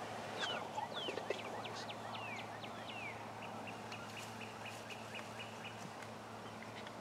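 Birds calling in spring woods: a series of quick down-slurred whistles, then about halfway through a rapid, evenly spaced run of short high notes. A low steady hum sits underneath throughout.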